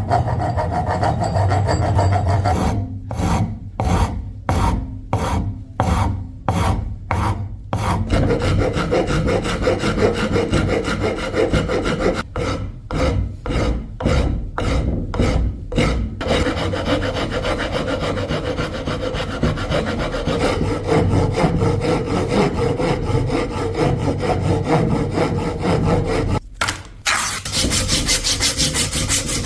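Wood being rasped by hand in back-and-forth strokes, with runs of about two strokes a second broken by short pauses. The scraping turns brighter and harsher near the end.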